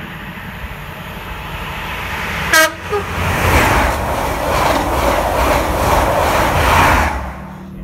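CrossCountry diesel passenger train running through the station at speed. It sounds a short horn toot about two and a half seconds in, then passes close by with a loud rush of wheels and air that cuts off about seven seconds in as the last coach clears.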